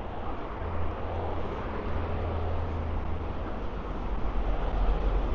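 Steady city road traffic noise, with a low rumble that swells near the end.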